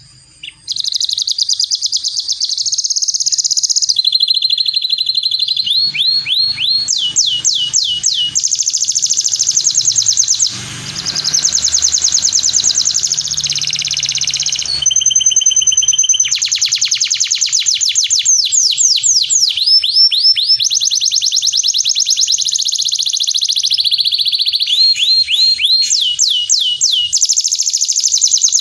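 Male canary singing continuously, long fast trills (rolls) of rapidly repeated notes alternating with runs of quick falling whistled sweeps.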